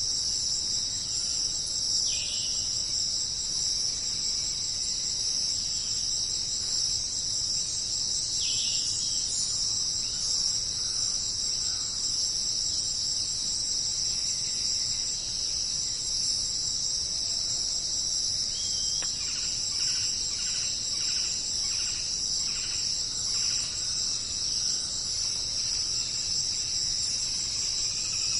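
Steady, shrill chorus of jungle insects. Over it come a couple of brief downward-sliding calls, and from about two-thirds of the way through, a run of short repeated calls at about two a second from a bird or frog.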